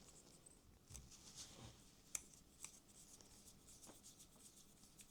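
Near silence with a few faint small clicks and soft rubbing: small parts of a model locomotive being handled and fitted by hand.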